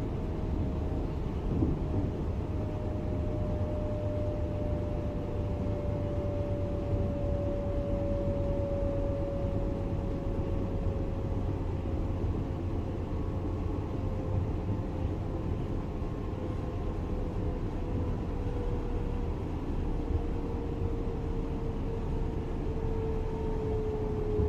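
Class 425 electric multiple unit running, its traction drive whining in a tone that falls slowly and steadily in pitch as the train slows, over a steady rumble of the running gear.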